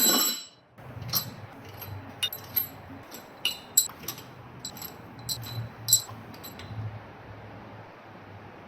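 A loud metallic clank, then a string of small sharp metal clinks and taps, each with a short bright ring, from loose steel engine bolts and parts being handled during the engine teardown.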